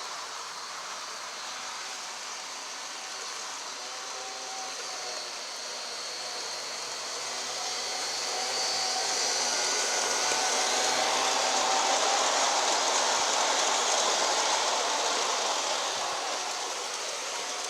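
G scale model locomotive running on the track, its electric motor and wheels giving a steady whir that grows louder as it comes by, peaks about halfway through and then fades as it moves off.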